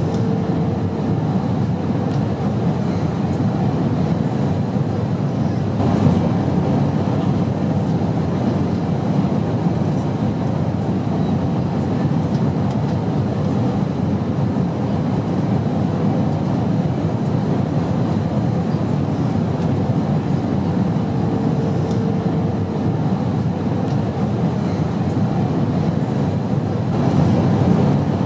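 Steady low drone of an airplane's engines and airflow, even and unbroken, with a faint short hum coming in twice.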